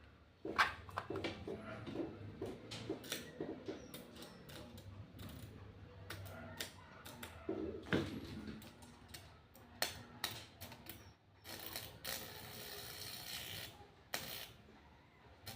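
High-voltage arc from a microwave oven transformer, current-limited by a second transformer's primary coil wired in series. Irregular snapping crackles over a low mains hum, with a stretch of hissing sizzle about twelve seconds in.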